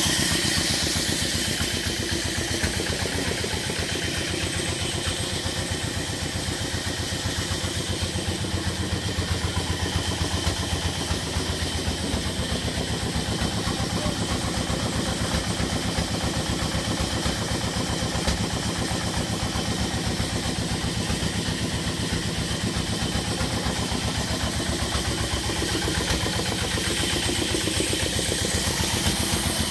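Petter diesel engine running steadily with an even beat, getting slightly louder near the end.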